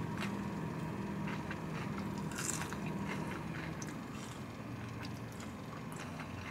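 Someone biting into and chewing a crispy fried chicken wing, with scattered faint crunches, over a steady low hum.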